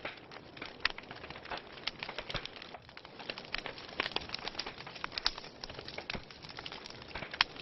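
Wood fire crackling in a fireplace: irregular sharp pops and snaps over a steady hiss, with one louder pop near the end.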